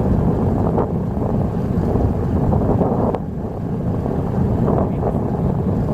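Steady low rumble of a fishing boat's engine running, with wind on the microphone.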